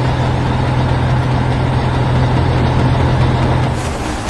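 Excavator engine sound effect: a heavy engine running steadily with a low hum, which drops away shortly before the end.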